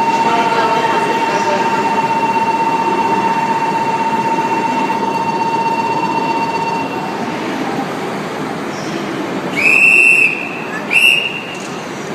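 Shinkansen train at a standstill during coupling or uncoupling, with a steady noise and a steady tone that stops about seven seconds in. Near the end come two short, loud, high-pitched whistle blasts, the second shorter than the first.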